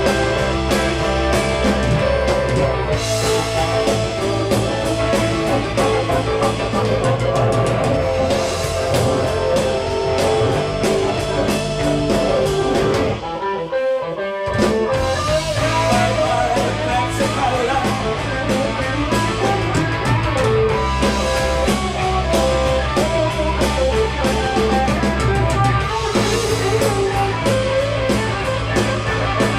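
Rock band playing an instrumental passage of guitar and drum kit, with a brief break about halfway through before the band comes back in.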